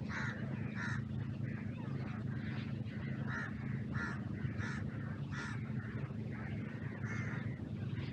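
A bird giving a series of short, harsh calls, about one and a half a second, over a steady low hum.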